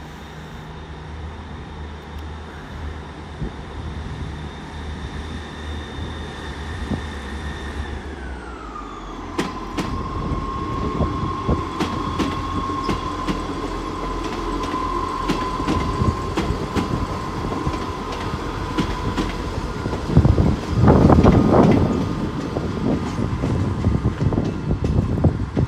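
Class 158 diesel multiple unit pulling out of the station: a steady whine over the engine that drops in pitch about eight seconds in and then holds, with wheels clicking over rail joints as it gathers pace. About twenty seconds in, a louder stretch of running noise as it passes close.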